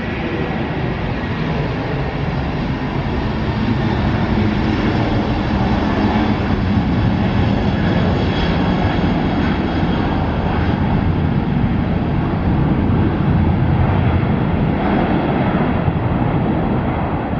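Jet airliner's engines running loud and steady, a broad rushing noise that swells a little through the middle and eases slightly near the end.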